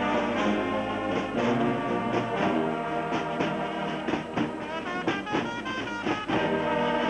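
Brass band music: horns holding and changing notes over a steady beat.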